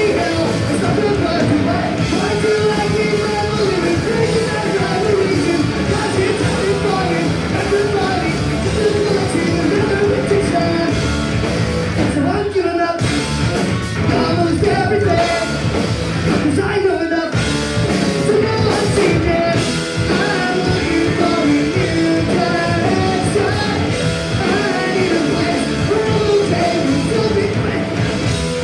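Live punk rock band playing a fast song: distorted electric guitars, bass and drums with shouted vocals, loud and continuous, with a couple of brief breaks about halfway through.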